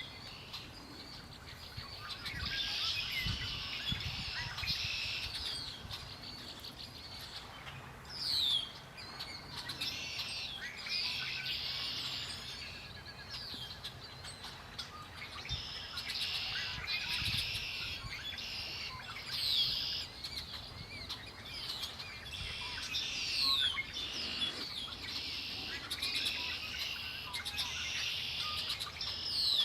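Several songbirds singing at once in a steady chorus of repeated song phrases, with occasional sharp, quick downward-slurred whistles.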